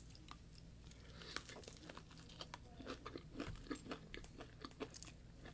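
Close-miked chewing and biting of fried yam: a quiet, irregular run of small crunchy clicks and wet mouth sounds, several a second.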